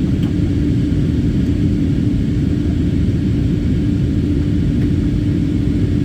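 Airliner cabin noise in flight: a steady low rumble of engines and airflow with a constant hum, heard from inside the cabin.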